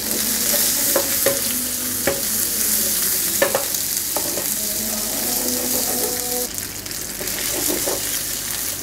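Chicken pieces and sliced red onion sizzling in hot oil in a frying pan, with a steady hiss. A spatula scrapes and clicks against the pan several times as they are stirred.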